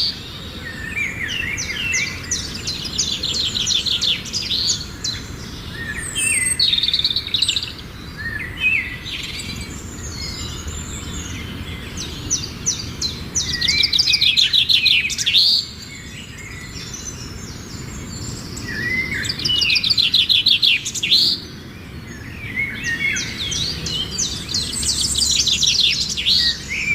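A songbird singing the same phrase over and over, about every six seconds: a few lower notes leading into a fast, rattling trill. A steady low rumble runs underneath.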